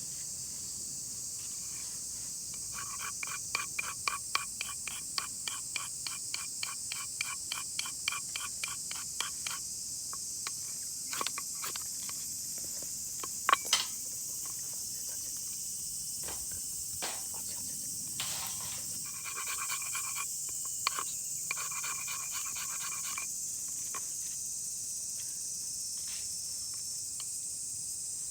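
Insects in the forest keep up a steady high drone, over which come two runs of quick, regular scraping strokes, several a second, with scattered clicks and one sharper knock about halfway through.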